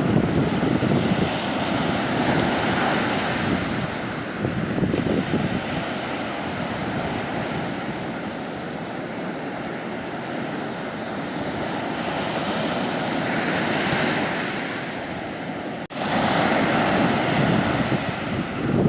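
Sea waves breaking and washing up a beach in a continuous rush. It swells louder as each wave comes in, and there is a momentary dropout about three-quarters of the way through.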